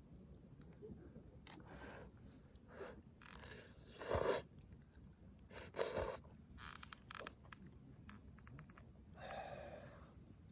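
A person eating something crunchy: a few short crunching bites, the two loudest about four and six seconds in, with softer chewing and small handling noises between them.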